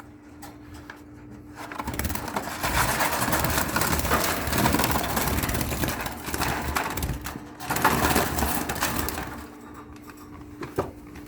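Rustling and crinkling handling noise with small clicks and scrapes, starting about two seconds in and easing off near the end, over a faint steady hum.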